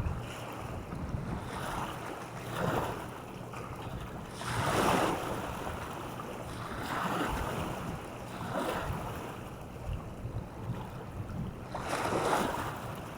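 Small waves washing on the shore in repeated swells, a few seconds apart, the strongest about a third of the way in and near the end. Wind buffets the microphone with a low rumble throughout.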